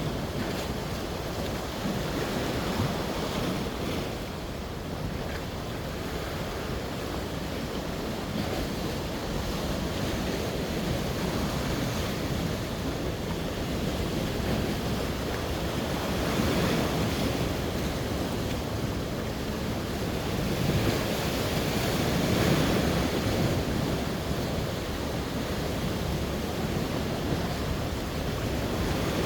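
Sea waves washing ashore, surging louder twice in the second half, with wind rumbling on the microphone.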